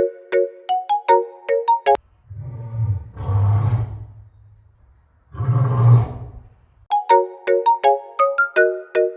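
A light plinking, ringtone-like melody breaks off about two seconds in. A big cat then gives two long roars, a few seconds apart, before the melody starts again.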